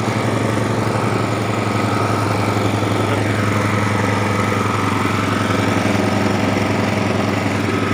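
Small engine running steadily, driving a multipurpose cassava chopping and grinding machine, with a steady high whine over the low pulsing engine note and a brief falling tone about three seconds in.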